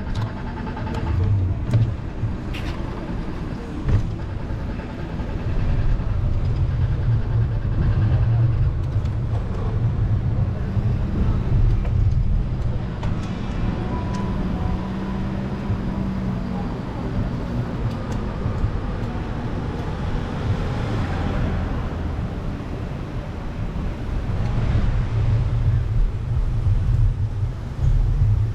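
Cars passing on a city street, with a steady low rumble throughout and a few short clicks.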